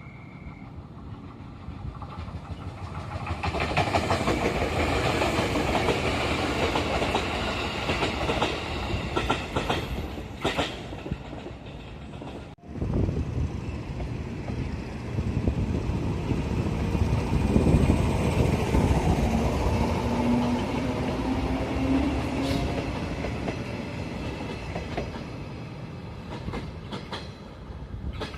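A train passing close by, its wheels clattering over the rail joints. About twelve seconds in the sound cuts abruptly to another passing train with a heavy low rumble that fades near the end.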